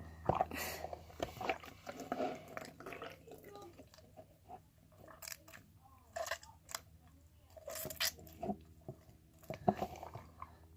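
Slime being squished and stretched by hand, making irregular sticky clicks and crackles.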